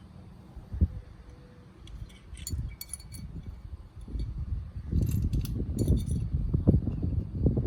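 Metal tools and small parts clinking against each other, in scattered clusters. Denser, louder knocking and handling noise comes in from about five seconds in.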